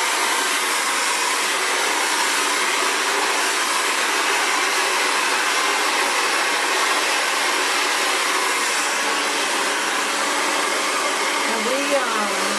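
Xtava Allure 2200-watt ionic ceramic hair dryer blowing steadily while drying natural curly hair.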